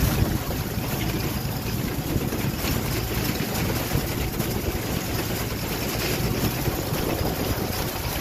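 A tractor engine running steadily while it tows a Massey reaper-binder cutting corn, with heavy wind buffeting the microphone.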